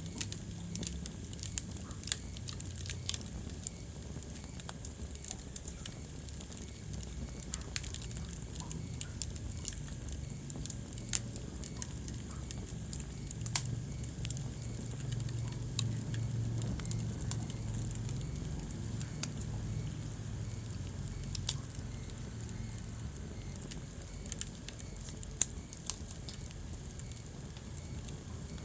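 Wood fire crackling in a fireplace: scattered sharp pops and snaps, a few louder than the rest, over a low steady rumble.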